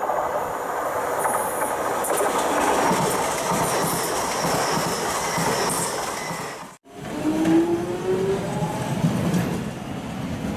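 Passenger train running past on the rails, a continuous rush of wheel and rail noise. About seven seconds in it cuts abruptly to another passing train, with a faint rising whine over the rail noise.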